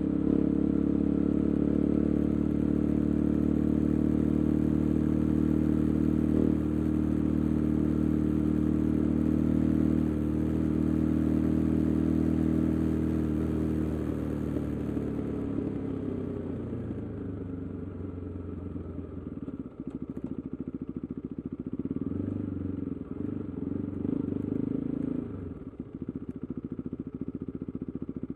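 KTM 390 Adventure's single-cylinder engine, breathing through an Arrow aftermarket exhaust with the resonator removed, running at steady revs. About halfway through the revs drop away, and the engine then runs lower and unevenly, with a short pick-up of throttle near the end.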